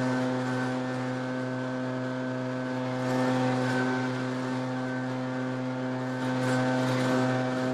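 Gas backpack leaf blower's two-stroke engine running steadily at high throttle, with a rush of air that swells every few seconds.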